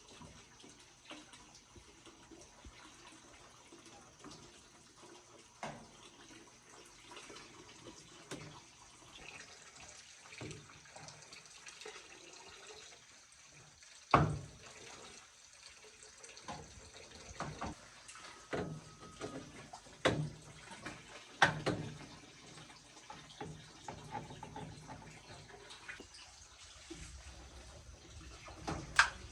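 Water running and trickling, with scattered sharp knocks and clicks. The loudest knocks come about halfway through and again just before the end.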